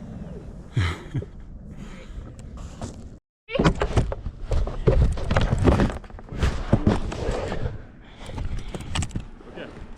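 Plastic sled disc sliding and bumping down a sand dune, an uneven rushing and scraping with knocks. It cuts out briefly about three seconds in, then comes back louder and rougher.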